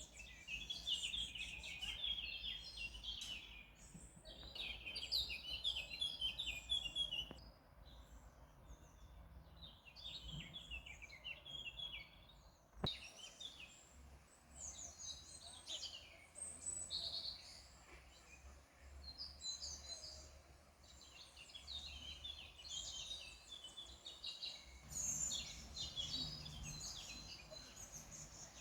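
Songbirds singing in repeated rapid, high twittering phrases a few seconds long, with short gaps between them. A single sharp click comes about halfway through.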